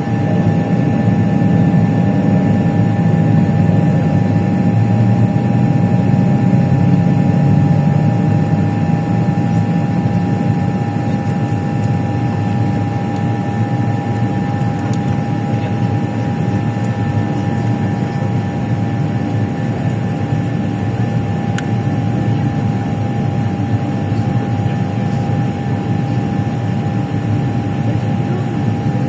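Airplane engine noise: a steady, loud drone with a constant high whine running through it.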